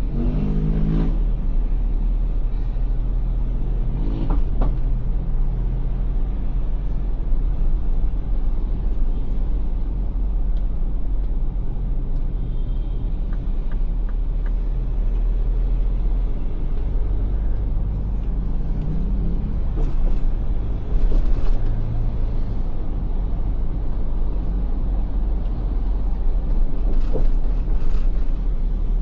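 Steady low rumble of an SUV driving in traffic: road and engine noise, with brief engine tones rising now and then.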